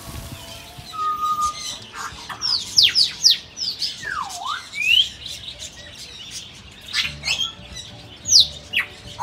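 Several birds calling: a series of sharp whistled notes, most sweeping steeply down in pitch and one dipping down and back up, starting about a second in.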